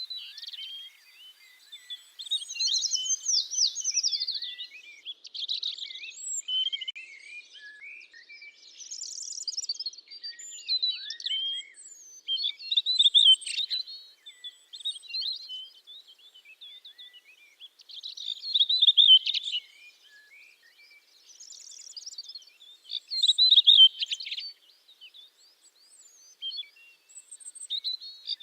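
Songbirds singing: quick chirps and trills in phrases a second or two long, recurring every few seconds.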